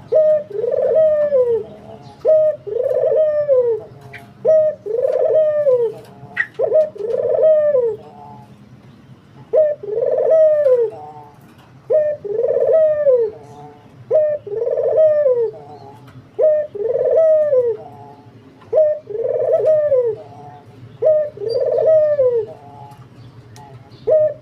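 A puter dove (collared dove) cooing vigorously: about a dozen loud, arched coos of roughly a second each, repeated every one and a half to two seconds, with a short pause about eight seconds in.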